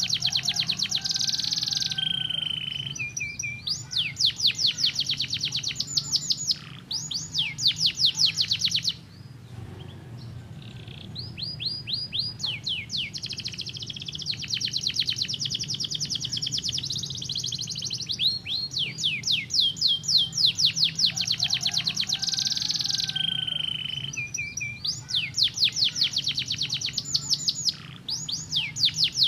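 Domestic canary singing: long, rapid trills of repeated high sweeping notes, with short rolls and changes of note between phrases and a brief lull about a third of the way in.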